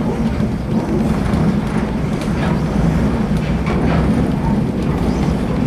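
Vintage passenger train rolling along the track: a steady low rumble with faint clicks from the wheels and rails.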